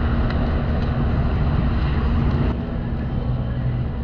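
A van driving: steady engine and road noise with a low hum. It drops a little in level about two and a half seconds in.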